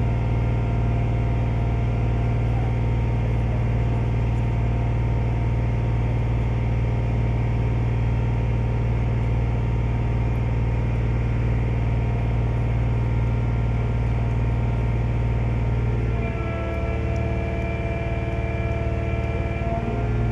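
Ferry's engine running with a steady low drone. About sixteen seconds in its note shifts and drops a little, and it returns to the first note near the end.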